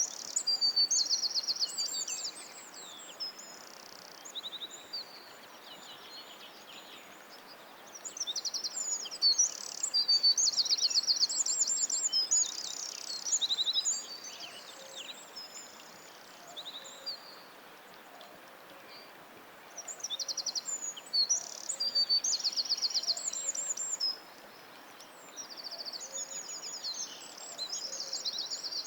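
Songbirds singing: phrases of fast trills and chirps come in bursts a few seconds long, with short lulls between them, over a faint steady hiss.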